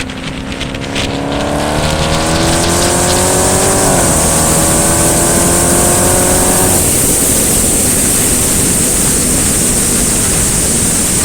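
Dodge Hellcat's supercharged 6.2-litre V8 through a Borla Atak cat-back exhaust, accelerating hard: the exhaust note climbs in pitch, breaks briefly at an upshift about four seconds in, climbs again, then falls away near seven seconds into steady loud rushing wind and road noise.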